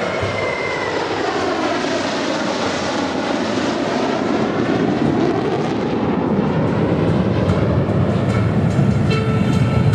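Royal Malaysian Air Force MiG-29N fighter jets flying past. Their jet engines make a loud, steady roar with a whooshing tone that sweeps down and back up as they pass, getting louder toward the end.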